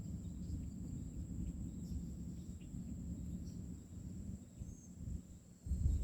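Outdoor ambience: a steady high insect drone over a low rumble of wind on the microphone, with the rumble surging louder near the end.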